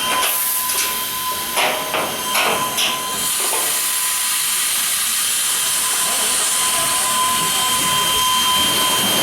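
Strasburg Rail Road No. 89, a 2-6-0 steam locomotive, hissing steam steadily while it stands taking on water. A few short knocks and bursts come in the first three seconds.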